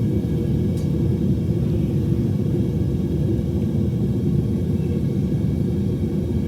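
Home metal-melting furnace running with a steady low rumble.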